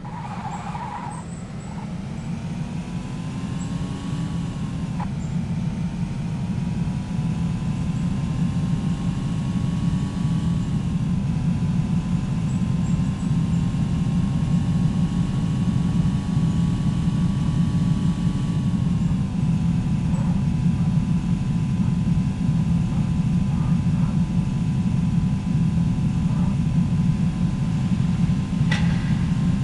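A moving vehicle: a steady low rumble of engine and road noise, with a faint whine that shifts in pitch a few times.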